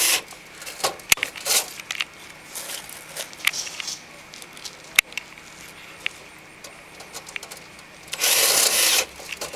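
Small metallic clicks and rattles of screws and the metal gutter screen being handled, then near the end a cordless drill briefly driving a self-tapping screw into the screen.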